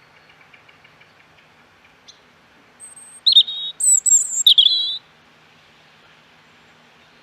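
Songbirds chirping: a faint run of quick notes, then about three seconds in a loud cluster of sharp, high chirps lasting about two seconds.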